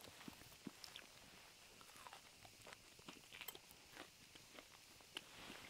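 Faint chewing of a bite of steak, with scattered soft clicks.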